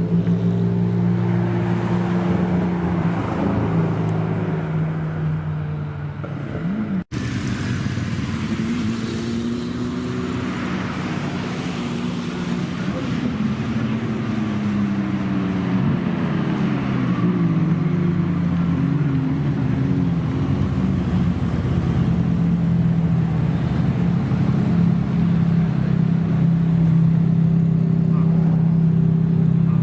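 Supercar engines idling steadily, with engine notes gliding up and down in the middle stretch as cars rev or move off. The sound cuts out for an instant about seven seconds in.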